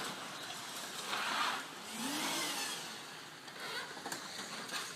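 Vehicle noise: a steady rushing engine-and-road sound that swells twice, with a few light clicks near the end.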